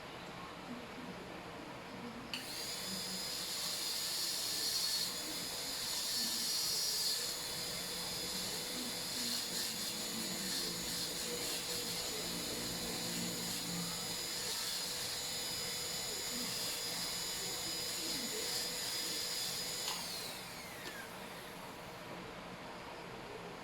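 Dental high-speed handpiece cutting a cavity preparation in a molar. Its steady high whine starts about two seconds in, holds, and winds down with a falling pitch near the end.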